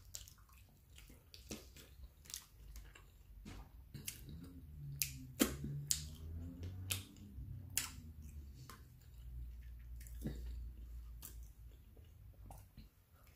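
Close-up wet chewing of a soft taco: scattered lip smacks and mouth clicks over a low murmur.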